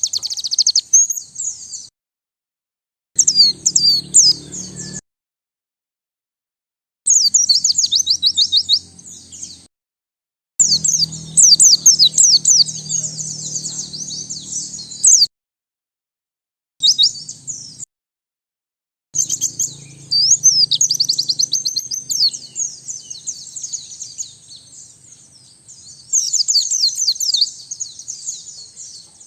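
White-eye (pleci) singing: rapid, high twittering phrases that come in bursts of one to four seconds. The bursts are separated by abrupt, dead-silent gaps, and the song runs longer and unbroken through the last part.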